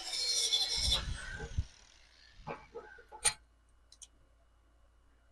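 A power tool running with a high whine stops about a second in, followed by a low thump and a few sharp clicks and knocks, the loudest about three seconds in.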